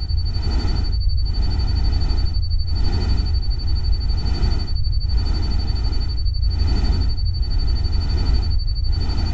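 Steady rushing rain-and-stream noise with a heavy low rumble, dipping briefly every second or so, over a continuous thin high tone.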